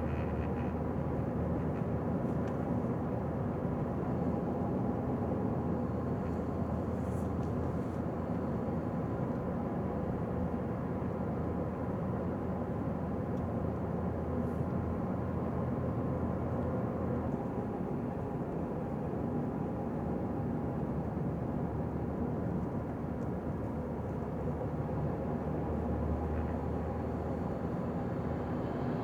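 Car driving along a town street: steady engine and tyre noise with a low hum that drops away a little past the middle and swells back briefly near the end.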